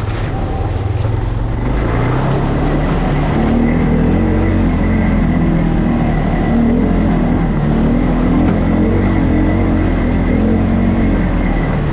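ATV engine running under throttle, its pitch climbing about two seconds in and then rising and falling as the rider works the throttle, with a thin steady whine above it.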